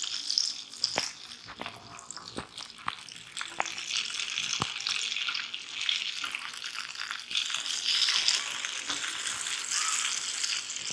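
Egg-soaked bread slices sizzling in hot oil in a frying pan: a steady frying hiss with scattered sharp crackles and pops.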